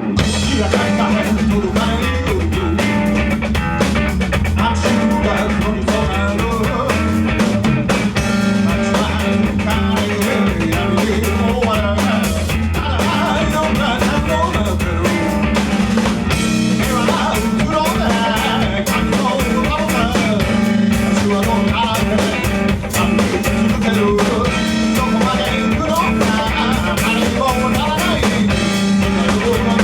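Live band playing a song: drum kit with rimshots and bass drum, guitar, and singing.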